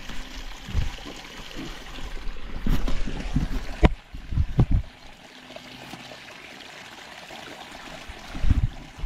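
Water trickling, with a few low thumps and one sharp knock about four seconds in.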